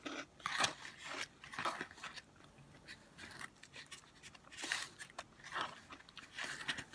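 Close-miked chewing and biting of crunchy food, with irregular crackly crunches.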